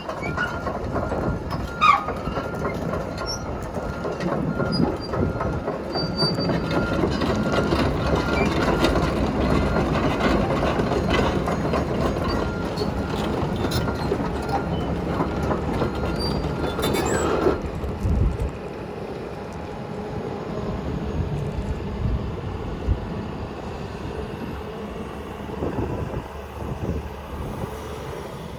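Komatsu PC228USLC-10 excavator running, its diesel engine under load and its steel tracks clanking and squealing as the machine travels. About two-thirds of the way through there is a loud clank, and then the machine runs more quietly.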